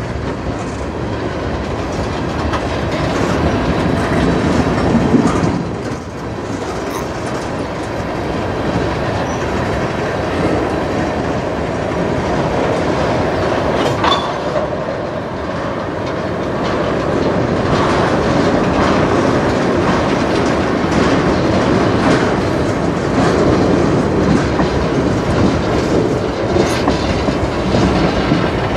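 Freight train cars, tank cars and a flatcar, rolling past close by: a steady rumble of steel wheels on rail with repeated clacking as the wheels cross rail joints.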